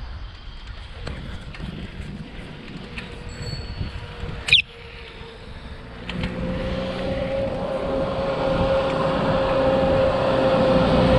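Wind and road rumble on the microphone while riding, with a brief high squeak about halfway through. From about six seconds in, a motor vehicle's engine draws near with a steady hum that grows louder.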